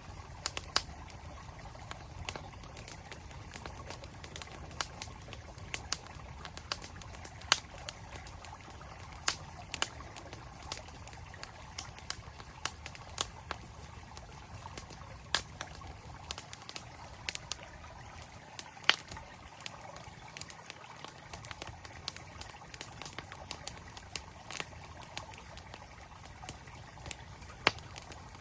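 Campfire crackling, with irregular sharp pops and snaps from the burning wood, over the steady rush of a flowing mountain stream.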